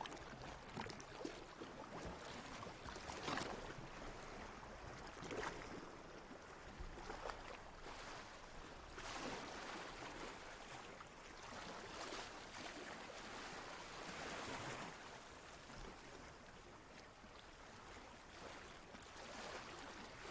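Water lapping and sloshing in irregular washes every second or two, over a steady watery hiss.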